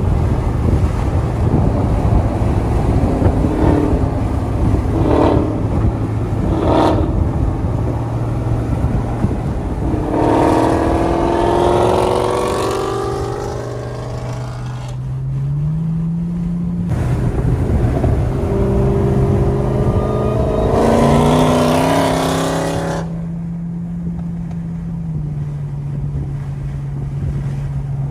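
Infiniti G35's V6 engine droning steadily at low revs while driving, its pitch stepping up a couple of times. Over it, another car's exhaust revs up and down twice, each time for about five seconds, around ten and twenty seconds in.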